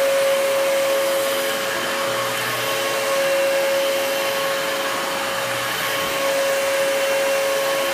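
Dyson DC33 bagless upright vacuum cleaner running steadily: a continuous rush of air with a steady whine.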